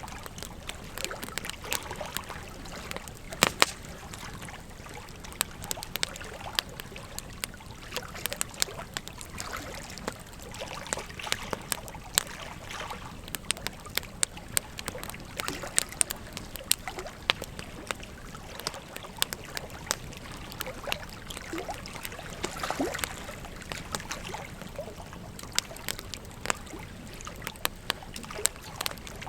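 Wood fire crackling with frequent irregular sharp pops over the steady sound of a flowing river.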